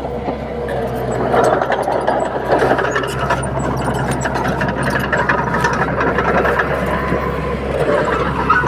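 Komatsu D31P bulldozer's diesel engine running steadily under work, with metallic clattering and rattling throughout.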